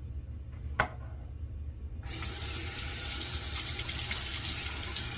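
Water from a tap running into a sink: it comes on suddenly about two seconds in and shuts off at the end, with a single short knock about a second in.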